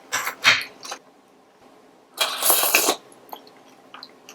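Close-miked eating sounds from a person: a few quick crunchy, clicky bites and chews in the first second, then a louder noisy burst lasting under a second, about two seconds in.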